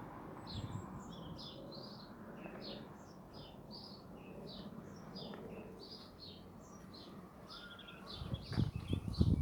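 Small birds chirping, short high calls repeating two or three times a second. A few low thumps near the end.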